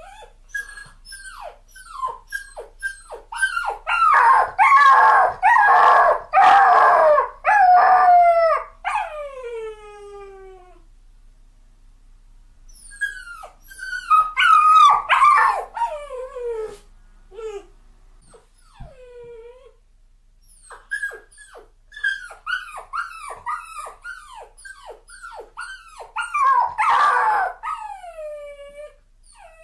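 Dog crying: a rapid run of high whines and yelps, each sliding down in pitch, in three bouts separated by short pauses, the loudest part in the first bout.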